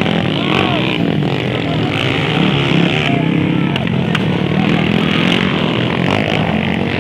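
Motocross dirt bike engines running steadily during a race, their pitch wavering with the throttle.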